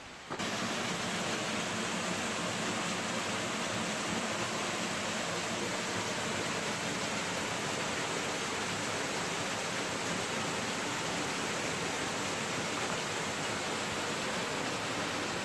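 Waterfall pouring: a steady, even rush of falling water that cuts in suddenly at the start and holds unchanged.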